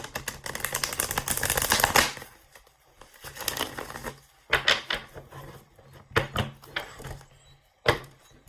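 Tarot cards being shuffled: a rapid run of card clicks for about two seconds, then several separate slaps and taps of cards being handled.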